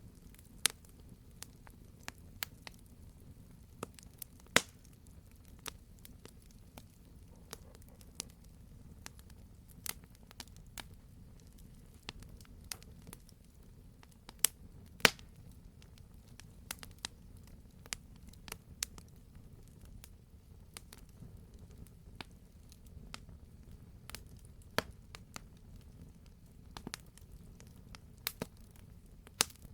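Wood fire burning in a fireplace: a low rumble under irregular sharp crackles and pops, a few of them loud, the loudest about four and a half seconds in and about fifteen seconds in.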